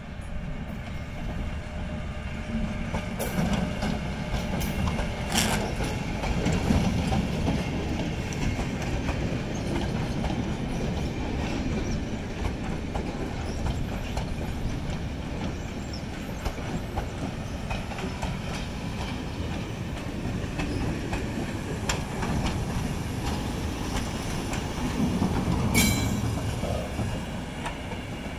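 A GB Railfreight Class 73 locomotive-hauled track-inspection train passing close by. The wheels rumble steadily and clack over the rail joints. It is louder soon after the start as the leading locomotive goes by, and again near the end as the rear locomotive passes.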